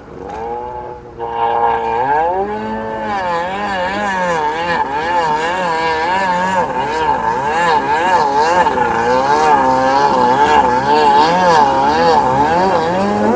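Jet ski engine running, its pitch wavering up and down over and over, a rise and fall roughly every half second to second. It comes in strongly about two seconds in after a brief dip.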